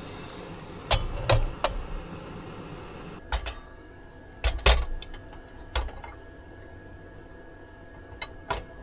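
A string of sharp, irregular clicks and knocks, about ten in all and several in quick pairs, over a steady low background hum that drops away about three seconds in.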